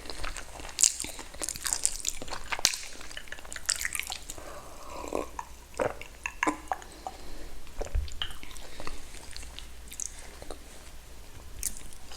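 Close-miked chewing and wet mouth sounds of someone eating, with irregular smacks and clicks.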